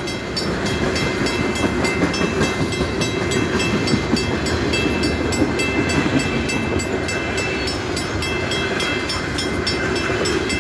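Freight train of tank cars and boxcars rolling through a level crossing: a steady rumble and rattle of wheels on rail. Over it the crossing-signal bell rings in a fast, even beat.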